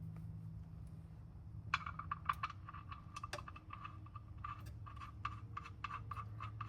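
Ratchet wrench clicking in short irregular runs, starting about two seconds in, over a steady low hum.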